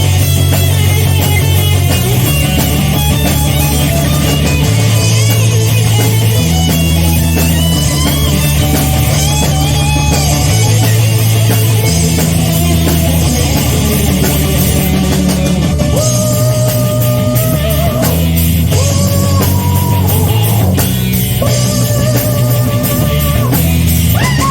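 Live rock band playing an instrumental passage: a lead electric guitar line with bends and, from about the middle on, long held notes with vibrato, over bass guitar and drum kit. It is recorded on a phone.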